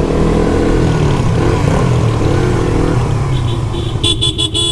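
Motorcycle engine running in traffic, its pitch rising and falling a little. Near the end a vehicle horn sounds in a string of quick beeps.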